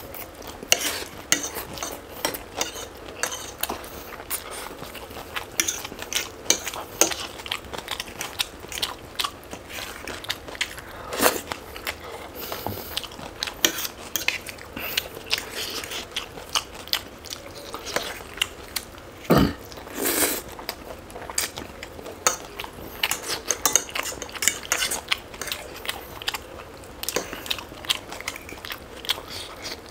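Close-miked eating sounds: a person biting and chewing food, with many small irregular crunchy, wet clicks, and a louder burst about two-thirds of the way in.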